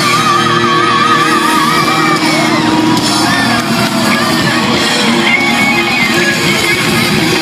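Live rock band playing loudly, with an electric guitar holding wavering lead notes with heavy vibrato in the first couple of seconds, then bending and sliding notes over the band.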